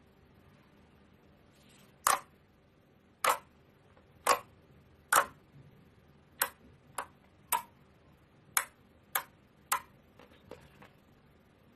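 A series of about ten sharp clicks, roughly one a second, the first few the loudest, followed by a few faint ones near the end.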